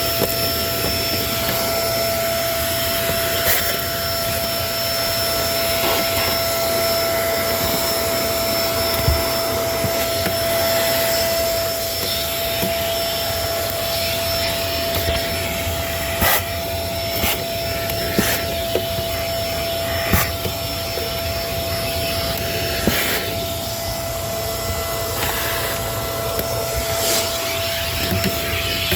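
Kenmore vacuum cleaner running steadily, its motor giving a constant whine over the rush of air, with scattered sharp clicks and crackles as grit and debris are sucked up.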